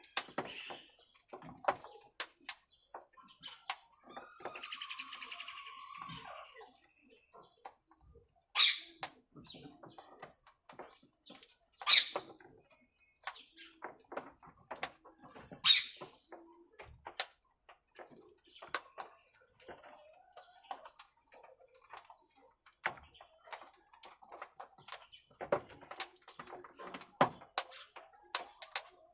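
Parakeets (Alexandrine and rose-ringed) calling: three loud, short, high screeches a few seconds apart, with a softer stretch of chatter before them and many small clicks and scratches throughout.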